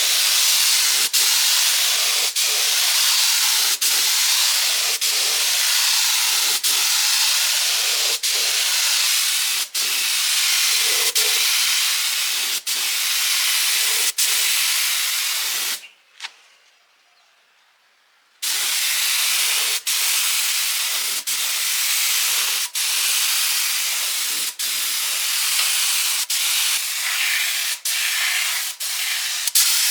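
A steady loud hiss, with light clicks about once a second; it drops out for about two seconds midway, then resumes.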